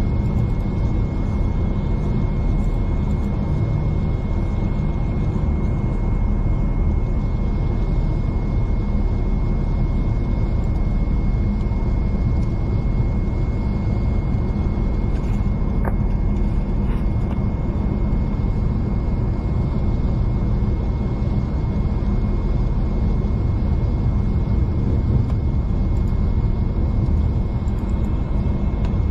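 V/Line passenger train running steadily at speed, heard from inside the carriage: a constant rumble with a thin high whine over it, and one short click about halfway through.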